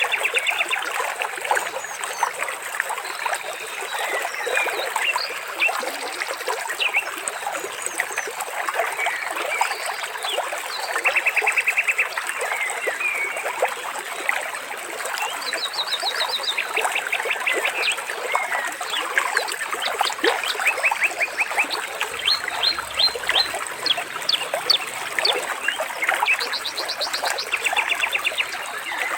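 Birds chirping and calling over a steadily trickling stream of water, with several quick trills of rapidly repeated notes standing out among the chirps.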